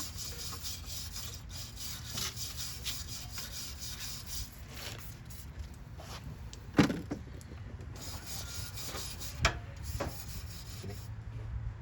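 Wire brush scrubbing grime off engine-bay metal in repeated rasping strokes, with a sharp knock a little past the middle and another later on.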